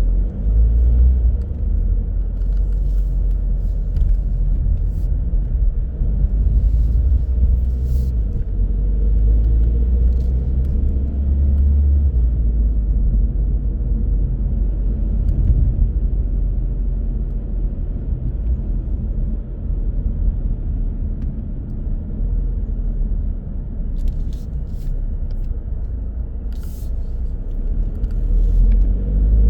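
A car driving along city roads: a steady, deep rumble of road and engine noise, with a few faint clicks.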